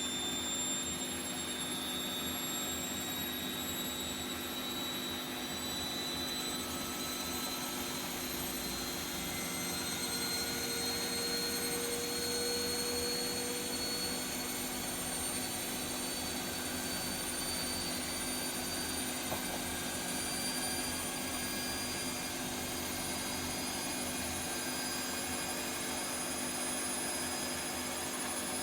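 Bosch Vario Perfect WAK28260GB/11 washing machine on a spin cycle: a steady motor and drum rush with a whine that rises slowly as it gathers speed. The machine is being run to check for worn drum bearings, which the owner suspects.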